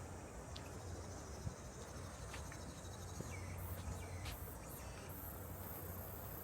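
Insects chirring steadily, high-pitched, with a few short high chirps in the middle.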